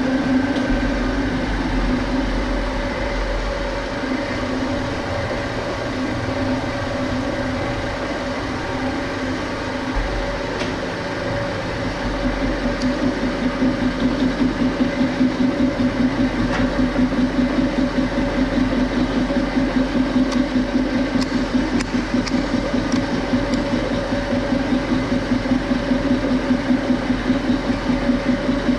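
Metalworking machine tool running as it takes a pass across the workpiece, with a steady drone. From about twelve seconds in the sound pulses evenly, about twice a second.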